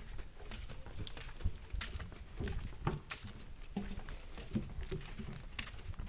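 Footsteps of people walking on a wooden boardwalk: a stream of irregular light taps and knocks.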